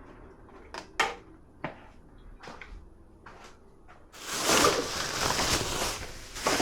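Dishwasher loading: a few sharp clinks and knocks of dishes, then a louder rattling rush of about two seconds, like a rack sliding, and a knock near the end.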